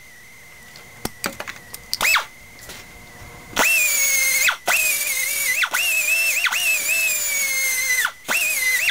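Grinder working the steel of a scissor jack in repeated trigger bursts: a high whine that sags in pitch while it cuts and slides down steeply each time it is let off, a few short blips first and then longer runs.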